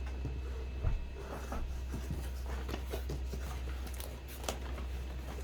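Rustling and light clicks of hands handling packaging and small items while unpacking a box, over a steady low hum.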